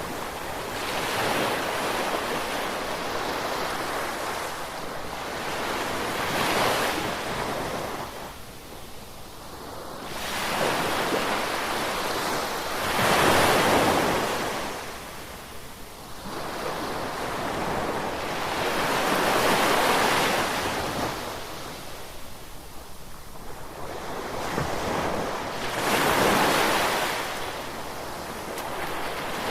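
Ocean waves breaking and washing on the shore, rising and falling in slow surges every six seconds or so.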